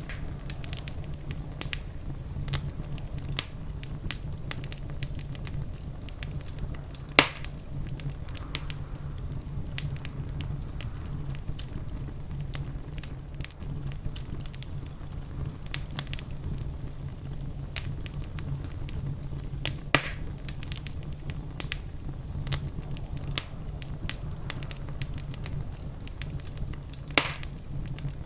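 Wood fire crackling steadily in a fireplace, with a low rumble of burning underneath and scattered sharp pops, three of them much louder than the rest.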